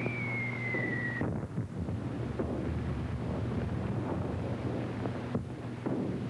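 Falling whistle of an incoming artillery shell that cuts off about a second in, followed by rumbling bombardment noise over the hiss and hum of an old film soundtrack.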